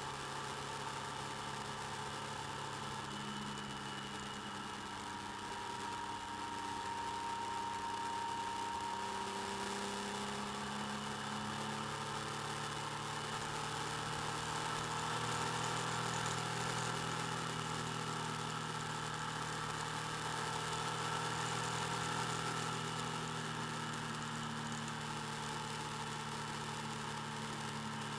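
Motorcycle engine running under way, recorded by a camera mounted on the bike, with road and wind noise beneath. The engine note rises and falls gently as the speed changes, getting louder from about a quarter of the way in.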